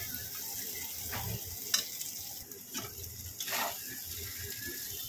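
Taro stolons (kochur loti) in a spice paste frying in mustard oil in a wok, a steady sizzle. A few short scrapes or knocks come through near the middle.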